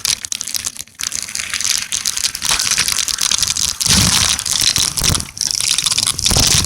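Crackling, rustling noise on the microphone of a camera carried on a bike ride, with a deeper rumble joining about four seconds in.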